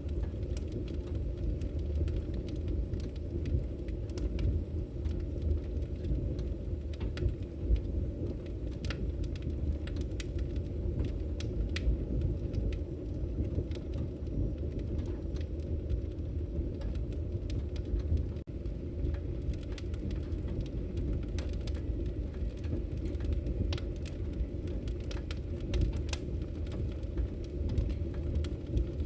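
Wood fire burning in a fireplace: a steady low rumble of the flames with frequent small crackles and pops at irregular intervals.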